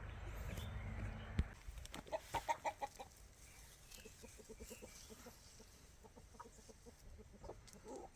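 Chickens clucking: a quick run of loud clucks about two seconds in, then softer, scattered clucking. A steady rushing noise stops about one and a half seconds in.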